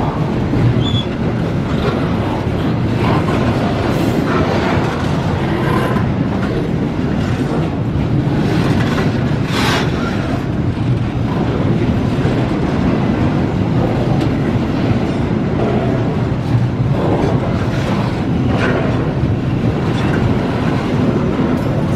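Container freight train's wagons rolling past close by: a steady rumble and clatter of steel wheels on the rails, with short sharper metallic noises now and then, the strongest a brief screech about ten seconds in.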